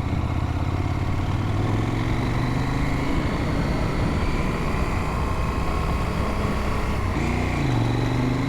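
KTM adventure motorcycle's engine running steadily under way on a gravel trail, with wind and tyre noise. About seven seconds in, the engine note drops and rises again as the throttle is rolled off and back on.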